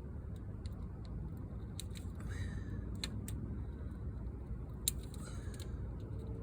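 Scattered light clicks and snips, with a dog giving two short whines, about two and a half and five seconds in, over a low steady rumble.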